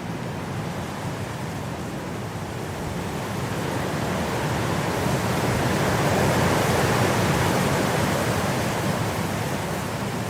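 Blizzard wind blowing in a steady rush of noise, swelling into a stronger gust about halfway through and easing off again near the end.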